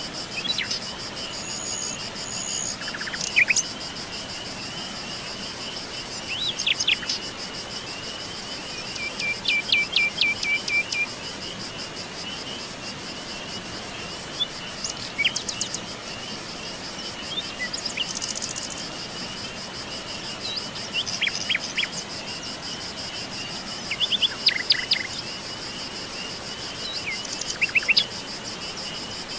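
Wild birds chirping and calling in short scattered phrases, several at a time near the middle and end, over a steady high trilling chorus of insects.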